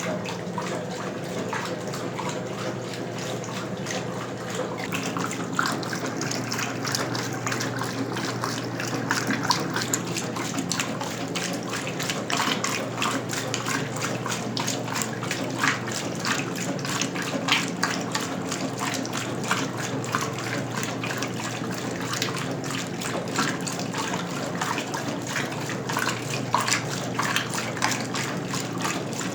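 Westinghouse washing machine (1977 model LWAAP6KX) running with water in it: a steady low hum under continuous water noise, with frequent short splashes.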